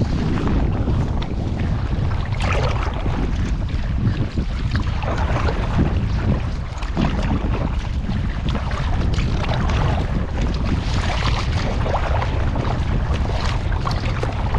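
Steady wind buffeting the microphone, with irregular splashing of water from kayak paddle strokes.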